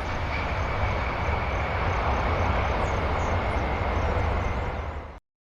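Steady engine noise from an airplane: a broad rush over a low rumble, with a faint steady whine. It cuts off suddenly near the end.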